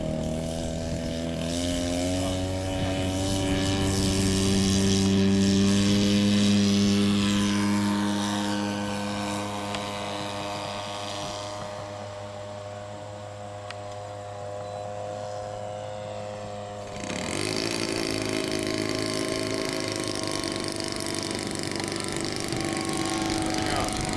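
Radio-controlled model airplane engine running in flight: its pitch rises at first, it grows loud about five to seven seconds in, then fades away. About seventeen seconds in a different, nearer engine sound takes over suddenly.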